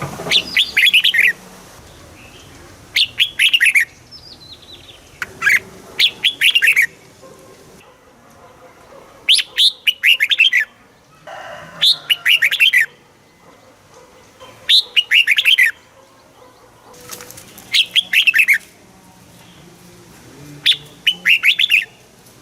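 Red-whiskered bulbul singing: about eight short phrases of quick, rich whistled notes, each around a second long, repeated every two to three seconds.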